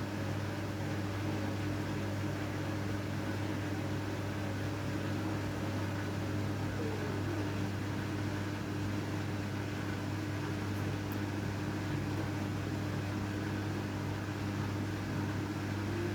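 Washing machine running through its wash of blankets: a steady motor hum, with a tone that slides down briefly about seven seconds in.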